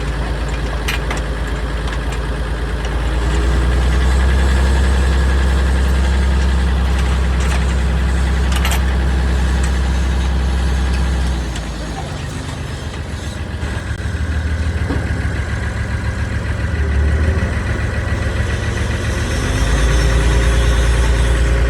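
Hino truck's diesel engine idling, getting louder about three seconds in, quieter about halfway through, and louder again near the end, with a few sharp clicks.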